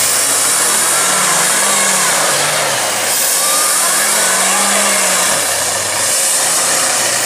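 Monster truck engines running hard under load, their pitch swelling and falling twice and easing off about five seconds in, over a loud, steady hiss.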